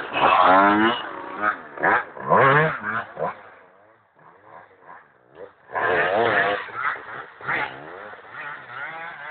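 Dirt bike engines revving in short bursts, rising and falling in pitch. They drop away about four seconds in and rev again near six seconds.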